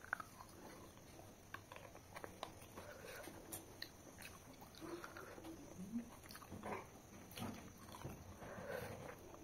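Faint close-up eating sounds: chewing and lip-smacking on mouthfuls of mutton curry and rice eaten by hand, with scattered small clicks and wet squelches as the fingers mix the rice.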